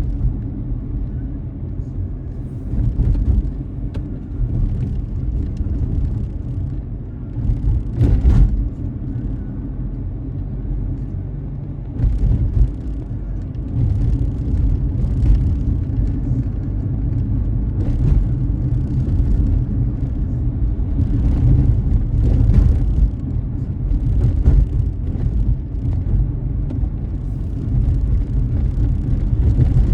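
Car driving on a wet road: steady low road rumble with short swells of tyre hiss every second or two, and a sharp click about eight seconds in.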